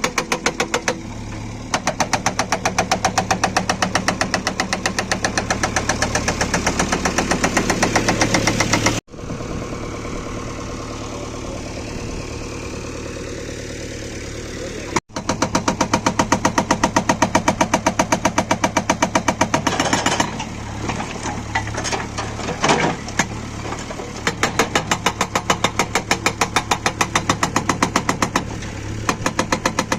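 Atlas Copco hydraulic breaker on a JCB 3DX backhoe loader hammering in rapid, evenly spaced blows over the running diesel engine. For several seconds in the middle the hammering stops and only the engine runs, then the blows resume, pausing briefly a couple of times.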